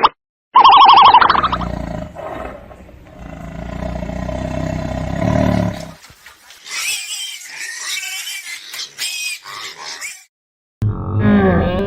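A run of different animal calls. It opens with a loud, rapidly pulsing call, then a low growling roar for a few seconds, then a string of high squeaky chirps, and near the end another loud call after a brief gap.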